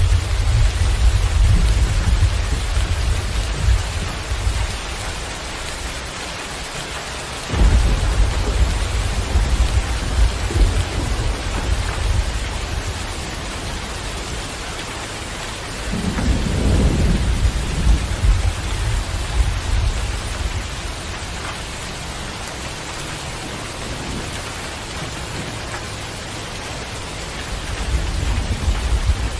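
Steady rain falling, with low rolling rumbles of thunder beneath it. One rumble starts suddenly about a quarter of the way in, and a deeper roll swells around the middle.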